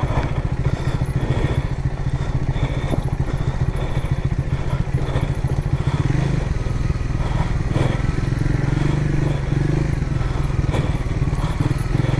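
Motorcycle engine running steadily, its note shifting slightly about six seconds in, with a few short clatters.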